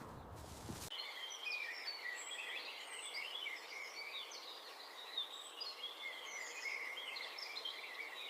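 Many small birds chirping, a dense run of short overlapping calls that begins about a second in, after a brief stretch of low rustling.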